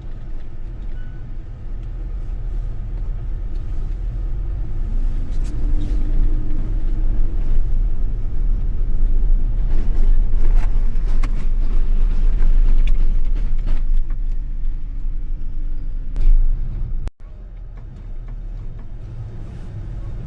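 Snow-plow truck's engine running under load while plowing, a steady low rumble that builds louder through the middle, with scattered short knocks. The sound drops abruptly quieter near the end.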